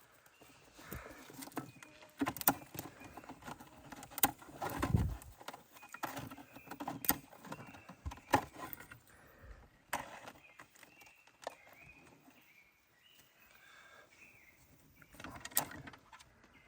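Small twigs snapped by hand and fed into a kindling fire: irregular sharp snaps and cracks, with a few louder handling thumps.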